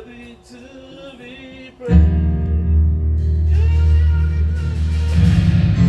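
Church band music: a voice singing softly, then a loud, steady low chord from the band comes in about two seconds in and holds.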